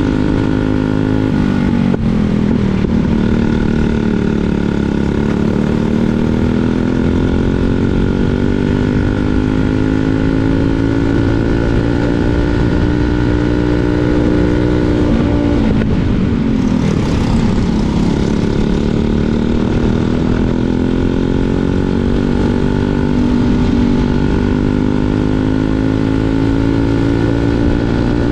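Briggs & Stratton LO206 single-cylinder four-stroke racing kart engine under load on track, its pitch rising as it accelerates and dropping as it slows for corners, with the deepest drop about 17 seconds in before it climbs back up.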